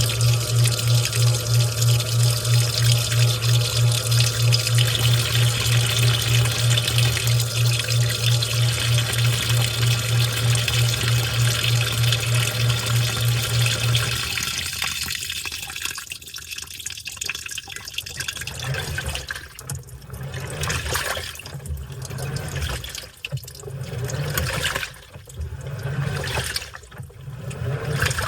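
Washing machine running with water moving through it: a steady low hum with rushing water stops about halfway through. Uneven surges of water sloshing and splashing follow.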